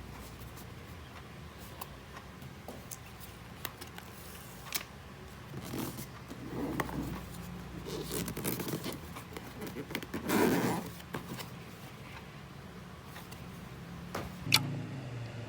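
Close-up handling sounds: a series of short scrapes and rustles with small clicks, one sharp click near the end, over a faint steady hum.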